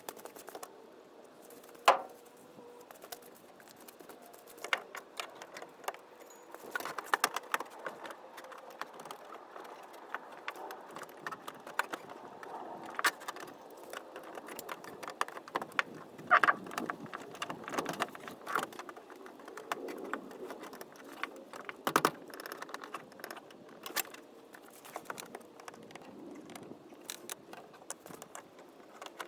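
Irregular metal clicks, taps and rattles of hand tools and small parts being handled, with a sharp knock about two seconds in.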